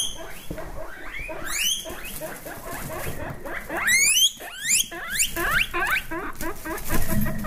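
Guinea pigs wheeking: repeated sharp, rising whistled squeals over a fast run of short chirping squeaks.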